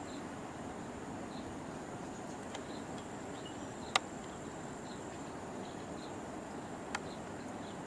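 Steady rush of a waterfall, with a continuous high-pitched insect trill and faint chirps over it; a sharp click about four seconds in and a smaller one near the end.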